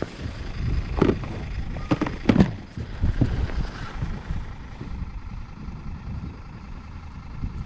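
Wind buffeting the microphone in a steady low rumble, with a few sharp knocks in the first three seconds.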